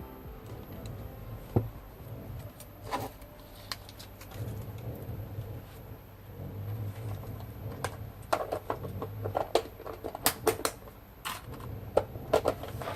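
Irregular light clicks and taps of small hard objects being handled, sparse at first and coming thick and fast in the second half.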